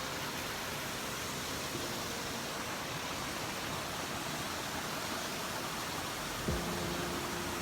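Steady rushing of a waterfall. Near the end there is a soft bump, followed by a faint held tone.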